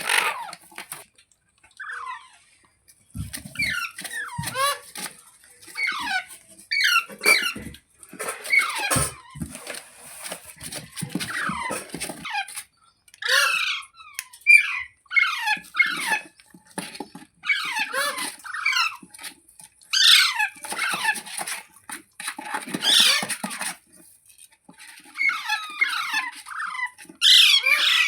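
Green ringneck parrot calling: repeated bursts of quick, squeaky chirps and shrieks that sweep up and down in pitch, a cluster every second or two.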